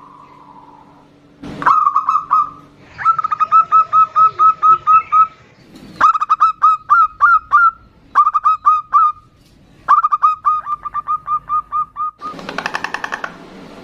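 Zebra doves (perkutut) calling back and forth in runs of short clipped notes, about five a second, in five phrases with brief pauses between. A harsher, buzzy rattle comes a little before the end.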